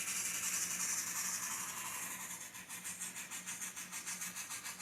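Model train running on the layout's track: a steady hiss of wheels on rail with a faint motor hum, joined about halfway in by rapid, regular clicking of wheels over the rail joints. It grows quieter as the locomotive is brought in to park.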